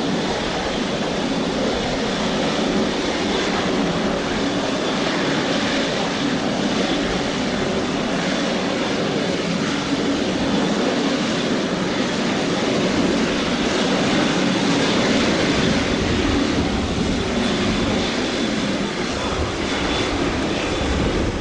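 Airbus A320-214 with CFM56 turbofan engines running close by: a steady, loud jet-engine noise with a faint high whine over it, holding even throughout.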